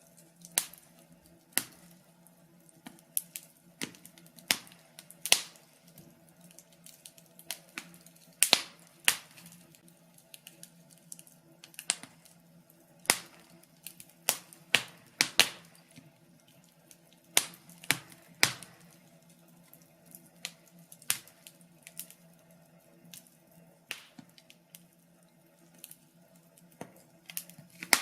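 Wood fire crackling: irregular sharp pops and snaps, several every few seconds, some louder, over a faint low steady background.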